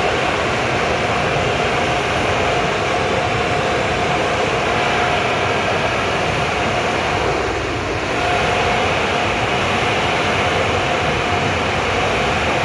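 Automatic car wash machinery running: a steady loud rushing noise with a steady whine, which dips and drops out briefly about seven to eight seconds in.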